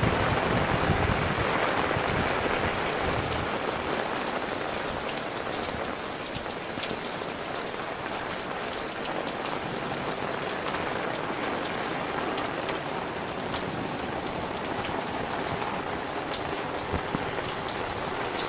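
Heavy rain falling steadily on surfaces, an even hiss with scattered drop patter. A lower rushing at the start eases off over the first few seconds, leaving the rain alone.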